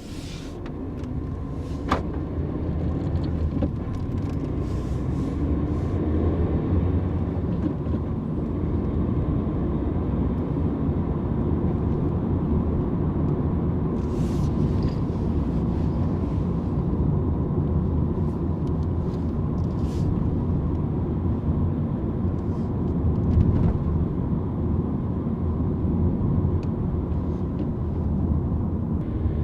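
Car driving: a steady engine and road-noise rumble that builds over the first few seconds, then holds.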